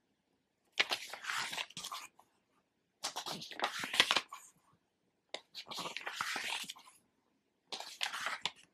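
Pages of a thick illustrated book being turned by hand, four times, each turn a paper swish lasting about a second.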